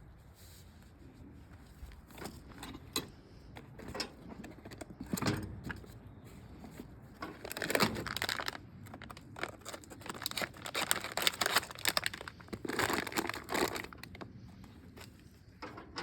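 Tools and parts being handled: irregular rustling and metallic clinks in several spells of clatter.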